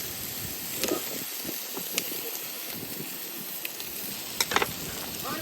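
Food sizzling in a hot pan: a steady hiss broken by a few sharp clicks, once about a second in, again a second later, and a quick cluster near the end.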